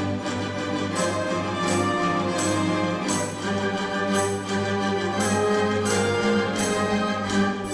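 Orchestral music with brass, held chords under a regular pulse of accents about every three-quarters of a second.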